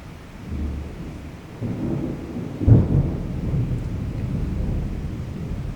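Thunder rumbling low, building to a sudden loud clap about two and a half seconds in, then rolling on steadily.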